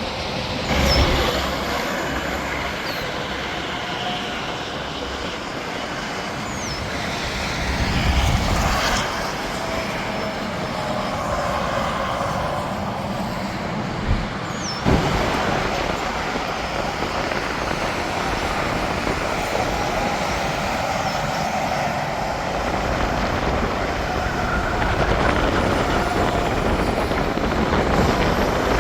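Interstate highway traffic: trucks and cars passing at highway speed in a steady stream, with louder swells as heavier vehicles go by, about a second in, around eight seconds in and near the end. Two short knocks about halfway through.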